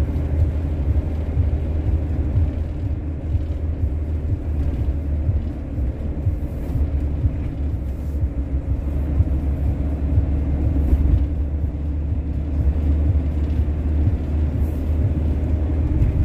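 Steady low engine and road rumble inside a camper van's cab while driving.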